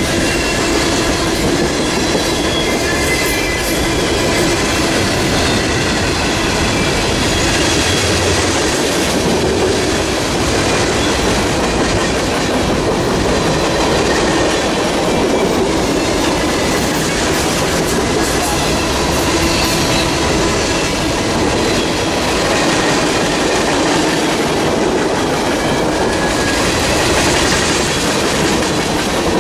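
Train cars rolling steadily past, a loud continuous clatter of wheels on the rails, with a faint high wheel squeal.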